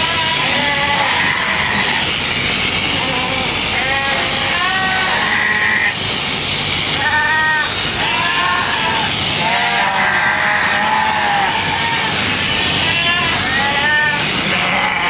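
Sheep bleating over and over, about a dozen short calls from several animals, over a steady loud background noise.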